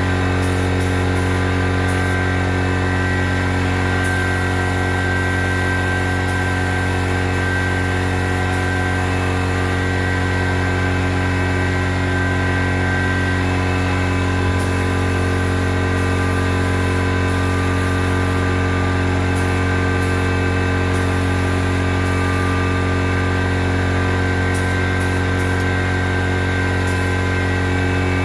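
Compressed-air paint spray gun spraying urethane clear coat at low pressure, about 20 psi: a steady hiss over a constant motor hum that does not change.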